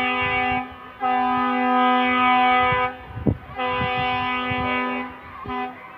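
A horn sounding in three blasts on the same unchanging chord, the middle blast the longest. Scattered low knocks sound beneath, with a sharp one about three seconds in.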